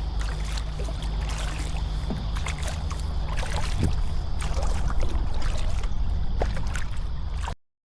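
Kayak paddle strokes splashing and dripping in shallow water over a steady low rumble, with scattered small clicks. The sound cuts off abruptly near the end.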